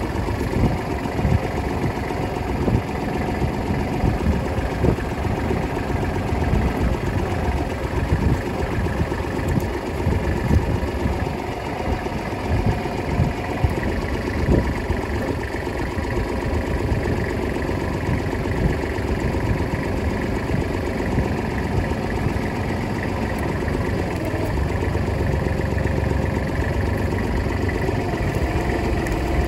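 Kubota L35 tractor's diesel engine running steadily at a low, even speed.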